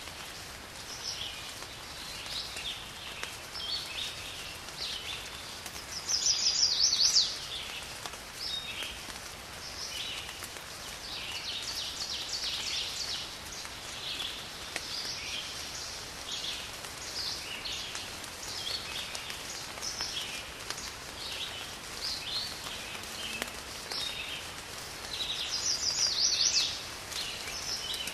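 Birdsong over a steady background hiss: many short chirps, with a louder rapid trill twice, about six seconds in and again near the end.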